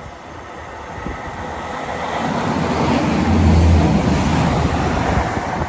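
Diesel multiple-unit passenger train passing the bridge: the noise builds to a peak with a low engine hum a little past halfway, then begins to fade.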